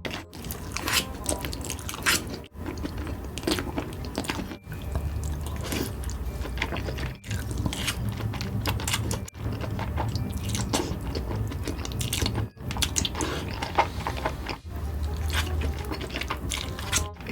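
Close-miked mukbang eating sounds: a person biting and chewing spicy noodles, wet and clicky. The sound cuts abruptly every two to three seconds as short clips of different eaters follow one another.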